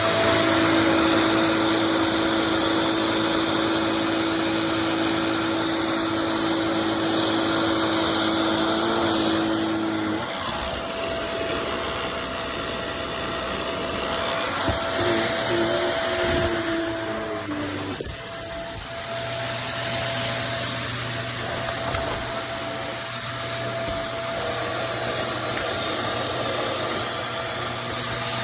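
Kenmore DU1275 bagless upright vacuum cleaner running steadily with its motor hum, the tone of the hum changing about a third of the way through and shifting again later as the vacuum is worked.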